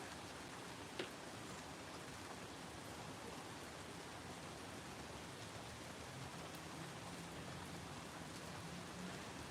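Steady rain falling, an even hiss, with a single sharp tick about a second in.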